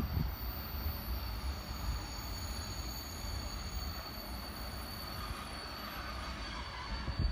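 Electric train approaching slowly, a steady low rumble with a thin high whine held throughout.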